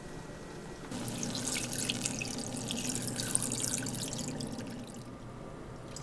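Kitchen tap running water into a sink, starting about a second in and stopping near the end.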